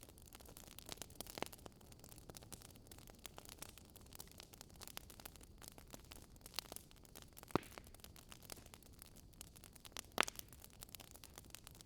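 Wood fire crackling softly over a steady hiss, with irregular small pops and two louder snaps about seven and ten seconds in.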